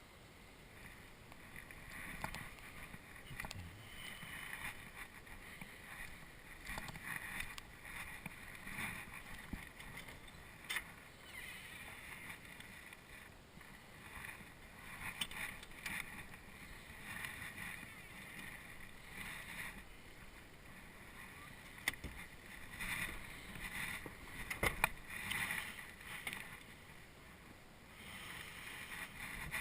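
Footsteps crunching through deep snow in an uneven walking rhythm, mixed with gusty wind noise on the camera microphone and a few sharp clicks.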